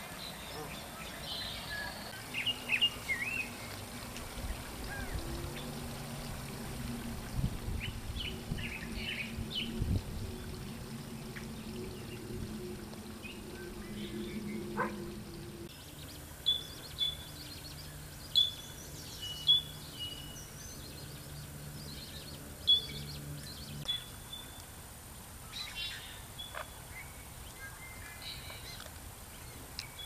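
Wild birds chirping and calling on and off, in short high notes, over a faint low steady hum.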